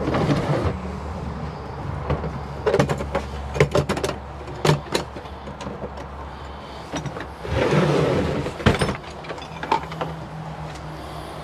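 Sharp metallic clicks and knocks of hand tools and parts being handled, with bouts of rustling, over a steady low hum of nearby highway traffic.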